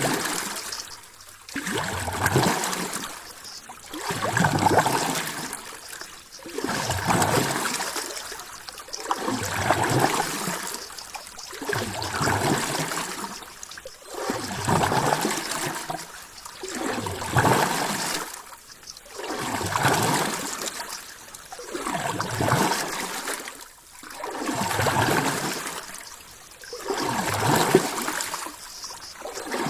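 Ocean water washing in and out in regular swells, about one every two and a half seconds, each surge rising and then falling away.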